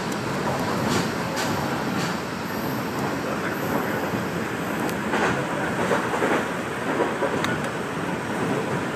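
KiHa 47 diesel railcar running at speed, heard from on board: a steady rumble of wheels on rail with a sharp click from the track now and then.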